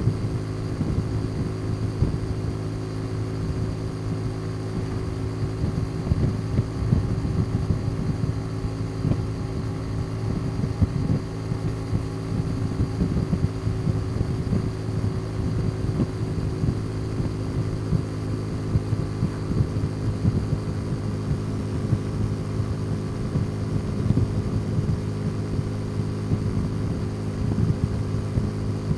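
Motorcycle engine running at a steady, unchanging pitch, as when cruising at constant speed, with irregular low thumps of wind buffeting on the microphone.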